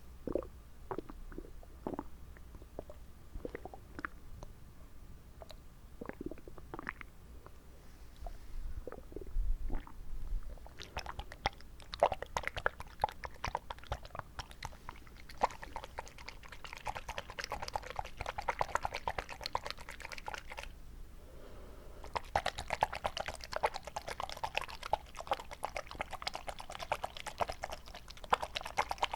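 Close-miked wet mouth sounds: tongue clicks and smacks with water in the mouth. They are scattered at first, then turn into a dense run of quick wet clicks about a third of the way in, pause briefly, and start again.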